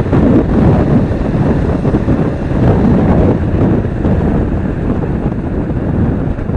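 Loud, steady wind rumble on the microphone from riding a motorcycle, mixed with road and traffic noise.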